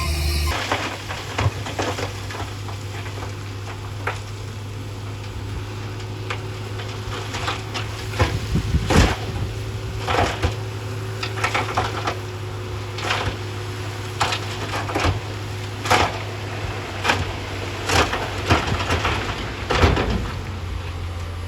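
Diesel engine of a heavy earthmoving machine running steadily, with many irregular sharp knocks and cracks over it, the loudest clustered around the middle and near the end.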